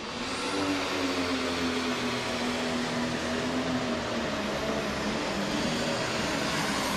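Pro stock pulling tractor's turbocharged diesel engine at full power, dragging the sled down the track. It opens up at the start with a sudden rise in loudness, then holds a steady, loud pitch.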